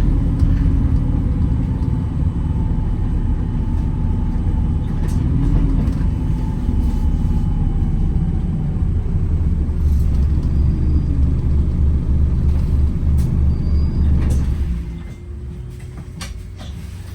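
Wright Gemini 2 hybrid double-decker bus running, a loud low rumble with a faint whine that falls slowly in pitch. About three-quarters of the way through, the rumble drops away sharply to a much quieter hum, with a few light clicks.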